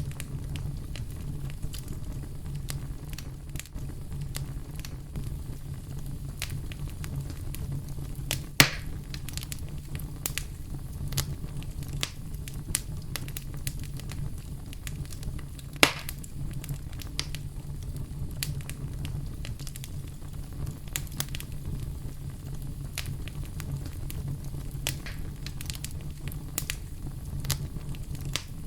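Campfire crackling and popping over a steady low rumble of brown noise, with two sharper pops, one about nine seconds in and one about sixteen seconds in.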